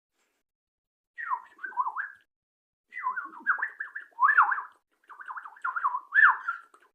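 A bird calling in three short bouts of quick up-and-down chirps and whistles.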